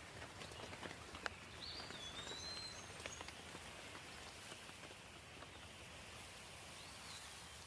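Steady rain with scattered drips, and a bird whistling a few short sliding notes about two seconds in and once more near the end.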